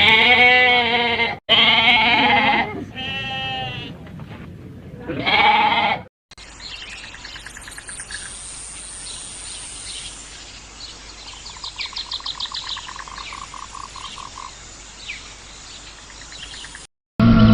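Sheep or goat–type bleating: about four loud, wavering calls in the first six seconds. After a cut, a quieter outdoor recording with scattered chirps and rapid trills over a steady hiss.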